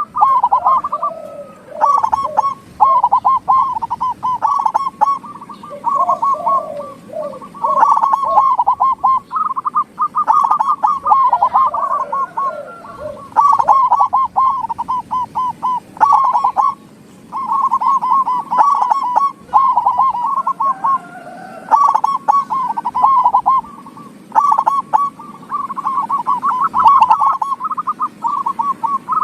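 Zebra doves (perkutut) cooing their rolling, repeated song, phrase after phrase of a couple of seconds each with short breaks, a second, lower voice sometimes overlapping.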